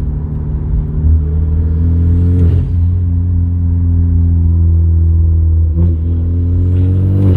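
2014 Hyundai Genesis Coupe's turbocharged 2.0-litre four-cylinder accelerating hard. Its pitch rises, then drops sharply at gear shifts about two and a half seconds in and again at the end. At each lift-off the blow-off valve vents with a brief hiss.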